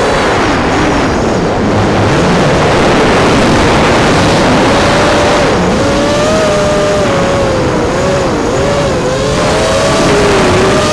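Brushless motors and props of a 210 mm FPV racing quadcopter whining, their pitch rising and falling with the throttle, over a rush of prop wash and wind, heard from the onboard camera.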